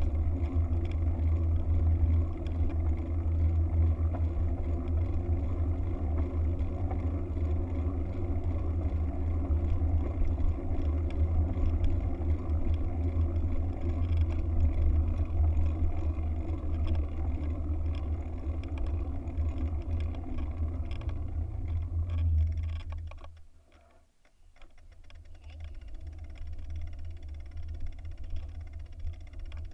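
Wind buffeting the microphone, heard as a deep, boomy rumble. Near the end it drops away suddenly for a moment, then comes back weaker.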